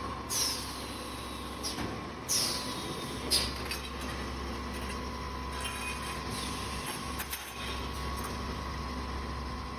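An automatic copper tube end forming and flatting machine cycling. It gives two short hissing bursts of released air that fall in pitch, about a quarter second in and about two seconds in, with sharp knocks between them near the two- and three-and-a-half-second marks. After that it runs with a steady hum and a few faint clicks.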